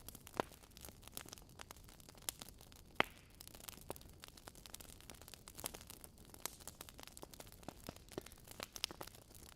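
Wood fire in a fireplace crackling: irregular sharp pops and snaps from burning logs, the loudest crack about three seconds in, over a faint low hiss.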